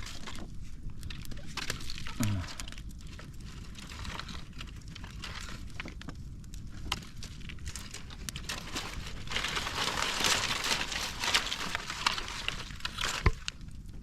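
Wood campfire crackling, with dry sticks and leaves rustling and snapping as they are handled. The crackling thickens about two-thirds of the way in, and there is a single low knock near the end.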